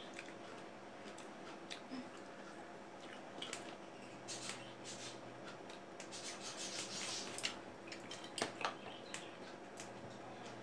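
Close-up chewing and crunching of raw fruit, wet crisp bites with small mouth clicks, busiest in the middle, along with faint clicks of fingers picking pieces off ceramic plates.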